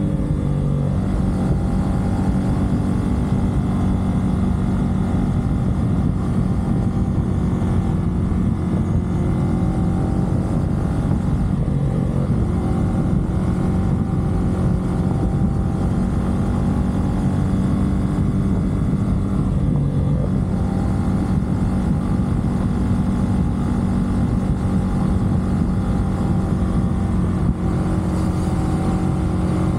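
CFMoto 450SR parallel-twin engine running steadily at expressway cruising speed, mixed with wind rush. The engine note shifts briefly a few times, about twelve and twenty seconds in.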